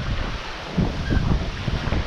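Wind buffeting the microphone in irregular low gusts over a steady hiss of wind and rushing water, aboard a sailing yacht under way.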